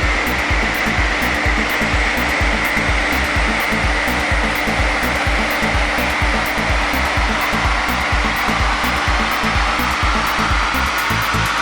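BMW 530xd's 3.0-litre straight-six turbodiesel under load on a chassis dynamometer: a loud, steady rush of engine, drivetrain and roller noise, with a whine that climbs slowly in pitch in the second half as speed builds. Electronic dance music with a steady beat plays underneath.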